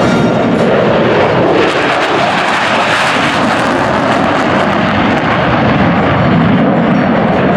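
Loud, steady rushing noise of F-15 Eagle jet engines, twin Pratt & Whitney F100 turbofans.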